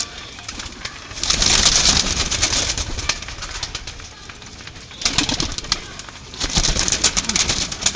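Domestic pigeons cooing, with three loud bursts of rustling, crackly noise.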